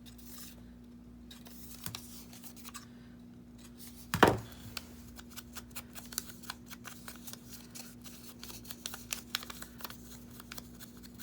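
Scissors trimming a thin edge off a piece of paper: a run of small snipping clicks, with one loud thump about four seconds in. A faint steady hum sits underneath.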